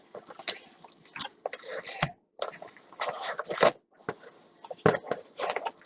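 Packaging rustling and crinkling in irregular bursts as it is handled and opened.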